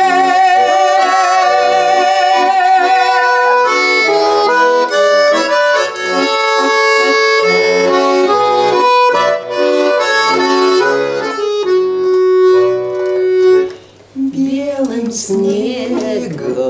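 Bayan, a Russian button accordion, playing an instrumental interlude between verses of a folk song: a melody of held notes over chords. The playing dips briefly near the end.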